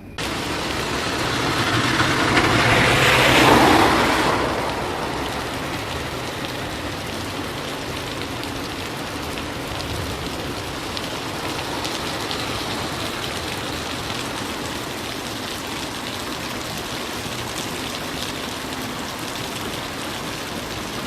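Heavy rain pouring down in a steady, dense hiss. A louder rushing swell builds over the first few seconds, peaks about three to four seconds in and fades back into the rain.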